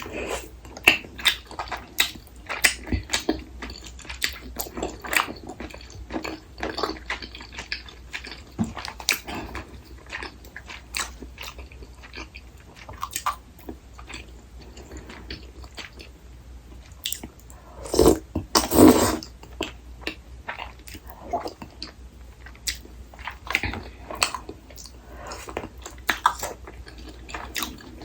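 Close-miked eating sounds of rosé tteokbokki: irregular wet chomps, bites and mouth clicks of chewing. About two-thirds of the way in comes one louder noisy sound lasting about a second.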